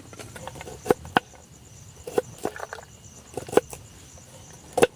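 Irregular sharp knocks and clinks of a utensil against a cooking pot or bowl, about seven in all, as a chutney is stirred and worked. A steady faint chirring of night insects runs underneath.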